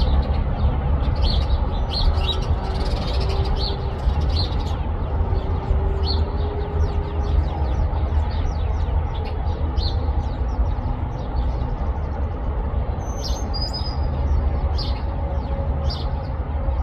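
Small birds chirping in a pine tree: many short, high chirps in quick succession throughout, over a steady low rumble.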